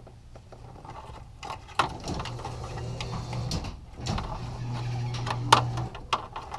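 Small plastic clicks, knocks and rustling as a garage door opener remote is handled and mounted with Velcro, over a low steady hum that breaks off twice; the sharpest click comes about five and a half seconds in.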